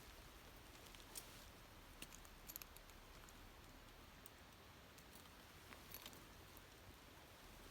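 Faint, scattered clicks and light rattles of tent clips and fittings being handled while a vestibule is fitted to a tent.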